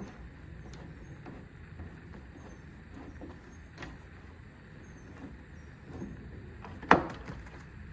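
Quiet handling of a backpack blower's plastic frame and tools against a low, steady background hum, with faint scattered clicks and one sharp knock about seven seconds in.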